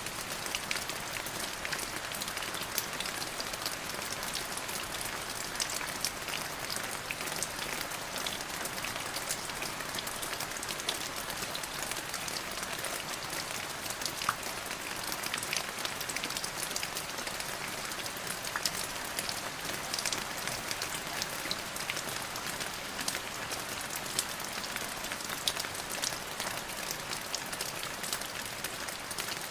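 Steady rain falling on a surface, an even hiss dotted with many small drop impacts.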